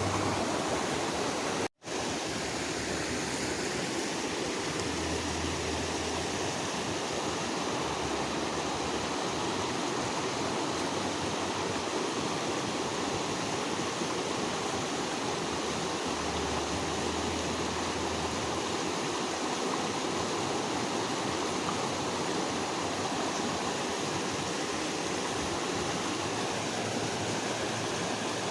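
Creek water running in a steady, even rush, with a momentary break about two seconds in.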